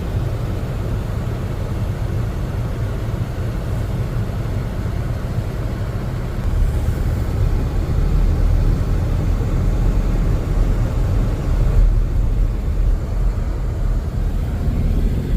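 Car driving at highway speed, heard from inside the cabin: a steady low rumble of engine and road noise that grows louder about six and a half seconds in.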